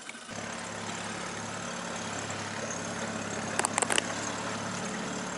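Freshly overhauled boat outboard motor running steadily at low speed, smooth and quiet. The hum sets in sharply just after the start, with a few short clicks about three and a half seconds in.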